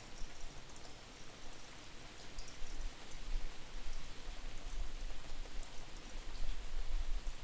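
Steady rain falling, with scattered drip ticks, and a distorted low rumble of wind buffeting the microphone that grows stronger about two and a half seconds in.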